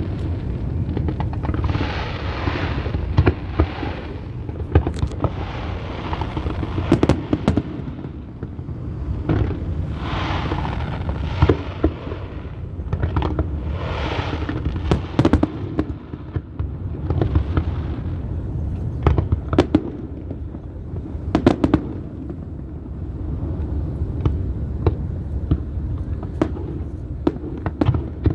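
Aerial fireworks display: many sharp bangs, irregular and closely spaced, over a steady low rumble, with stretches of hiss every few seconds.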